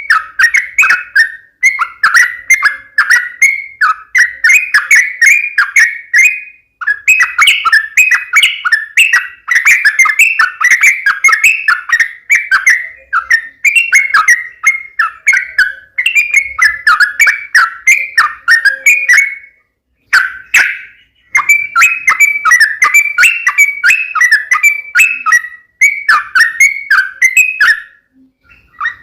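Yellow-vented bulbul (trucukan) singing loud, rapid chattering phrases over and over, with two short pauses late on. This is the bird's excited fighting song, played to provoke other trucukan into answering.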